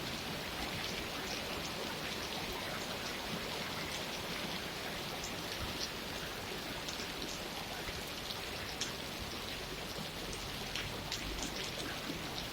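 Steady rain falling, a continuous even hiss with many individual drops ticking.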